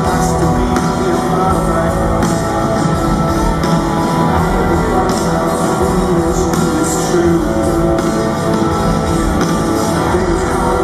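Live rock band playing, with guitars and singing.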